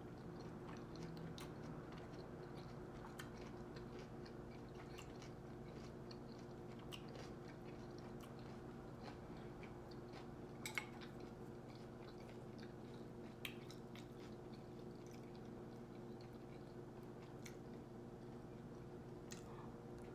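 Faint chewing and mouth sounds of a person eating, with scattered light clicks and two sharper clicks about ten and thirteen seconds in, over a steady low hum.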